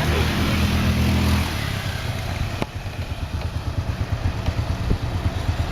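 Motorbike engines in busy street traffic. One runs loud and close for about the first second and a half, then gives way to a lower mix of several engines, with a single sharp click near the middle.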